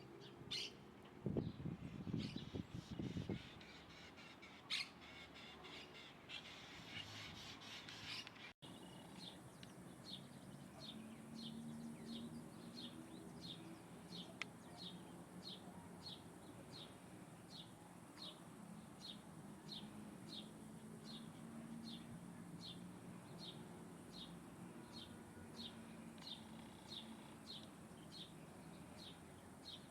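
Birds calling: mixed louder calls for the first several seconds, then, after a break, a steady run of short high chirps repeating about one and a half times a second.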